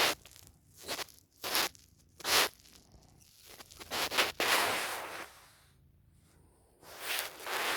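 Close scraping and rustling right on the phone's microphone: several short strokes and a few longer ones, as a cat paws and rubs against the phone.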